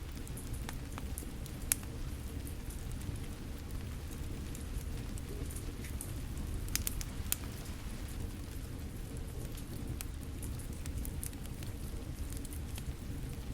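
Steady rain falling, with a fire crackling over it in scattered sharp pops, the loudest about two seconds in and a pair around seven seconds.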